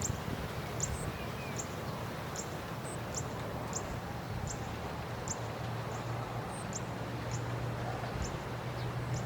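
Rural outdoor ambience: a short, high chirp repeats about every three-quarters of a second over a steady rustling hiss. A low, steady hum joins a little past halfway.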